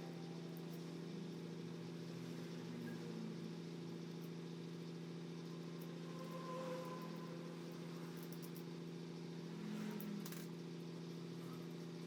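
Low, steady mechanical hum holding one pitch, with a few light clicks and taps about two-thirds of the way through.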